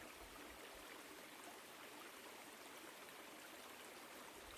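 Woodland stream flowing over rocks: a faint, steady rush of water.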